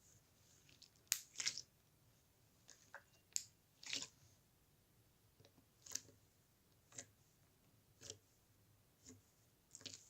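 Faint, scattered crisp clicks and small crunches, roughly one a second, with a sharper pair of clicks about a second in and another near four seconds.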